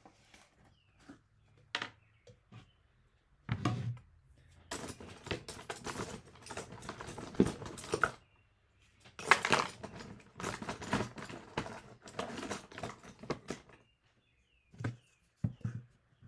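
Paintbrush scrubbing on cardboard: two long stretches of quick scratchy strokes, with scattered taps and clicks around them.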